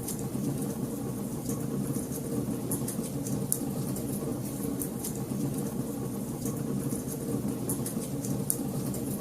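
Wood fire burning in a fireplace: a steady low rumble of flames with many small, sharp crackles and pops scattered irregularly throughout.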